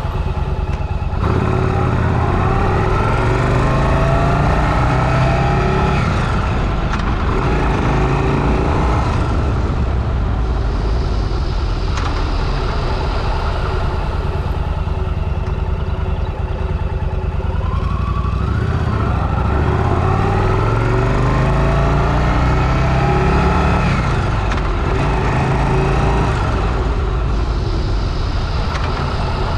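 Motorcycle engine heard from the rider's helmet camera, pulling away and climbing in pitch through the gears twice, about a second in and again past halfway, with steadier cruising between.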